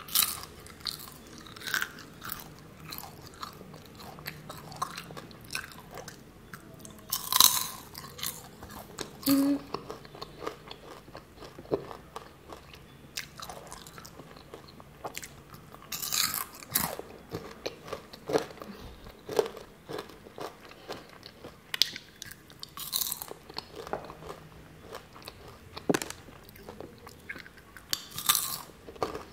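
Close-up chewing of crisp matcha-coated caramel popcorn: irregular crunching throughout, with a handful of louder bites scattered through it.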